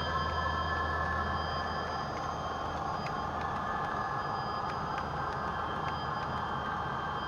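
A Hornby TTS sound decoder in a model Class 66 locomotive plays its steady diesel engine sound through the model's small speaker. It has a low hum and a few high whining tones, with faint occasional clicks.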